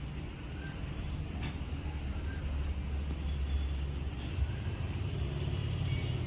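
A low rumble, strongest about two to four seconds in, with a faint hiss above it.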